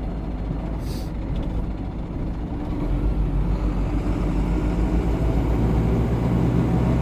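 GAZon Next truck's diesel engine running while driving, heard from inside the cab. It grows louder about three seconds in, with a short high hiss about a second in.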